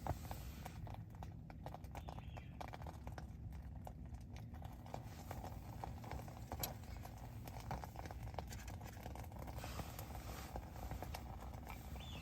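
Campfire crackling: irregular sharp pops and clicks over a low, steady rumble.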